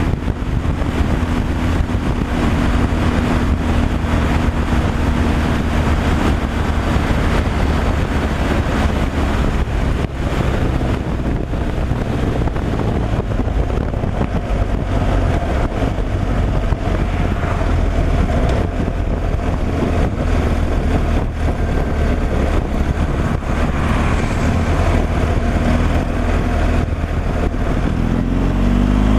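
Semi-truck diesel engine and road noise while driving at a steady pace, a constant low drone. Near the end the engine note starts to rise as it picks up revs.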